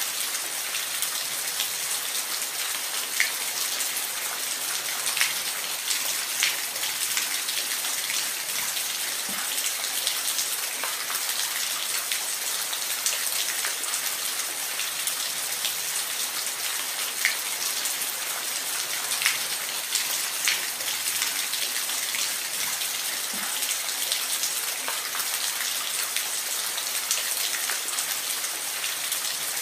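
Steady rain: an even hiss of falling rain with scattered sharper patters of single drops hitting a surface.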